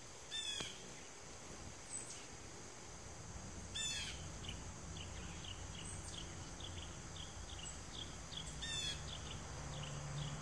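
Faint birdsong: a quick high trill repeated three times, several seconds apart, with a run of short chirps, two or three a second, from about halfway through.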